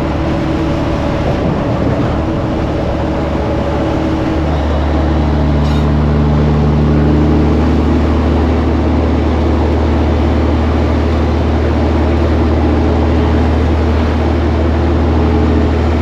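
Semi truck's diesel engine droning steadily as it drives at road speed, heard from inside the cab with road noise. About four seconds in, the engine note gets heavier and a little louder.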